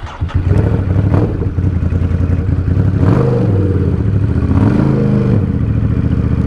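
Ducati Supersport 950 S's L-twin engine through an aftermarket exhaust, opening up loudly about a third of a second in. It then runs on under throttle, with the note rising and falling twice as the bike accelerates and the revs change.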